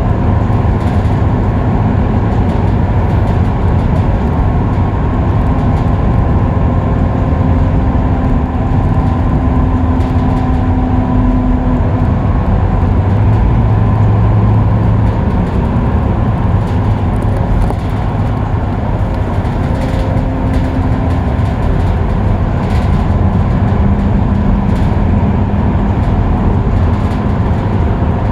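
Scania K310UB bus at steady freeway cruising speed: a continuous drone of its five-cylinder diesel engine and drivetrain mixed with road and tyre noise, with a low hum that drifts slightly in pitch.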